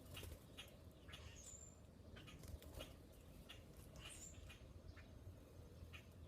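Faint scattered clicks and taps from birds and squirrels at a feeder, with two short high bird chirps, about a second and a half and about four seconds in.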